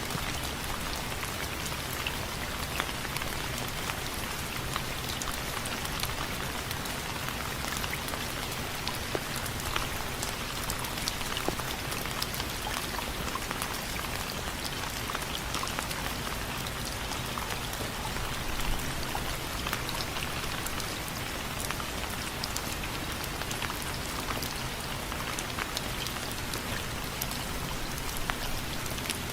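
Steady rain falling on window frames, a constant hiss with many sharp individual drop ticks scattered through it.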